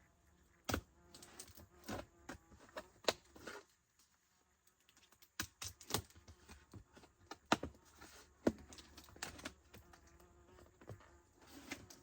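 Cardboard box being handled and pried at: scattered sharp clicks, knocks and short scraping rustles, with a faint steady buzz underneath.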